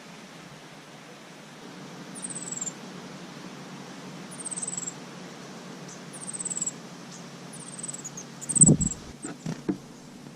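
A small bird giving a high, thin, falling call about every two seconds, four times, over a steady hiss. A loud thump about three-quarters of the way in is followed by a few softer knocks.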